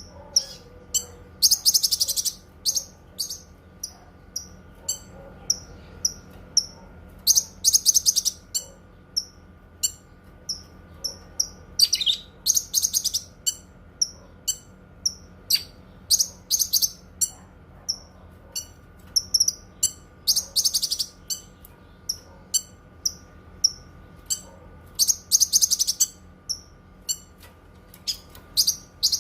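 Cucak kinoi singing: short high chirps repeated about once or twice a second, broken every four to five seconds by a louder burst of rapid, very high trilling about a second long. A faint steady hum sits underneath.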